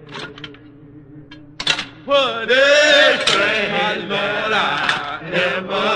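Voices chanting over a steady sustained drone. It is quiet with a few sharp clicks for the first two seconds, then the chanting comes in loudly about two seconds in.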